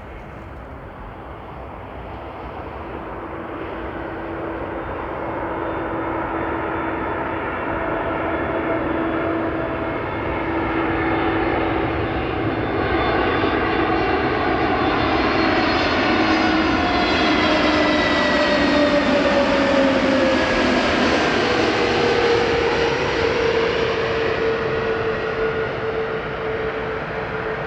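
Passenger jet airliner on final approach to land, its engine noise swelling steadily over about twenty seconds as it comes near. Through the loudest part the engines' whine falls in pitch as the plane passes, and the sound eases a little near the end.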